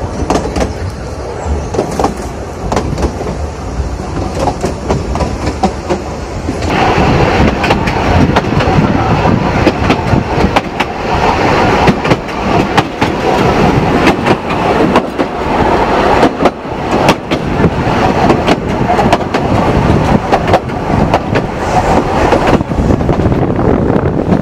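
Narrow-gauge railway carriage running along the track: a steady rumble with many short clicks and clatters from the wheels on the rails. It gets louder and fuller about seven seconds in.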